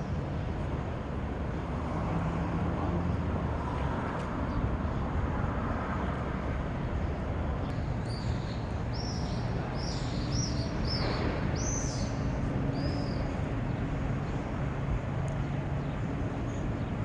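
Swallows chirping in short, high, arched calls over a steady hum of city traffic; the chirps come in a run of about a dozen a little past the middle, with a few more at the end.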